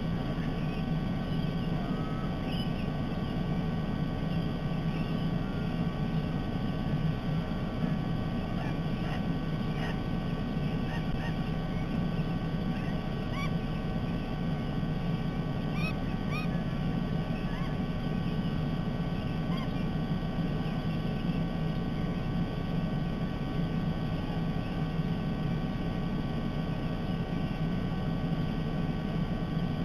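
A steady low background rumble with scattered short bird chirps over it, most of them in the middle of the stretch, from parrots at the nest.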